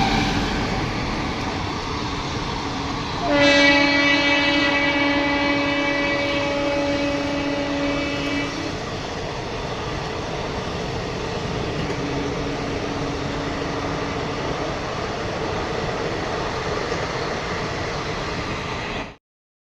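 Indian Railways train running past at speed with a steady, dense rush of wheels and coaches. About three seconds in, the locomotive sounds one long horn blast of about five seconds on a single steady note, and the same note returns faintly a few seconds later; the sound cuts off suddenly near the end.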